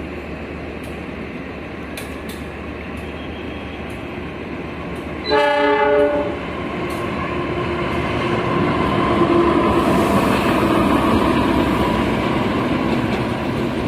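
Train running past on the rails, its steady rumble swelling after about eight seconds, with a few sharp clicks in the first half. About five seconds in the locomotive's horn sounds one short blast of just under a second.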